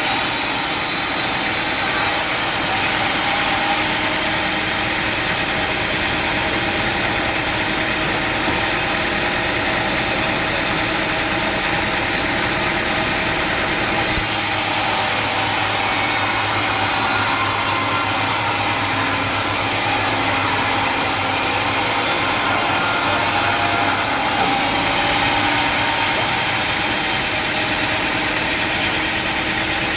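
Sawmill machinery running steadily: engine noise mixed with saw noise as wood is milled. The sound changes abruptly a few times.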